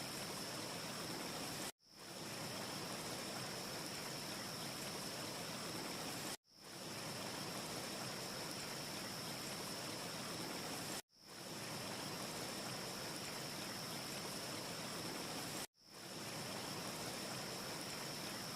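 Steady rushing noise with a steady high whine running through it. It cuts out abruptly four times, about every four and a half seconds, and fades back in each time: a short ambience loop repeating.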